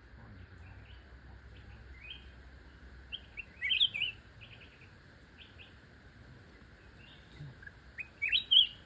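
Small birds chirping with short, high calls, breaking into two loud bursts of rapid chirps, one about four seconds in and one near the end, over a steady high background hiss.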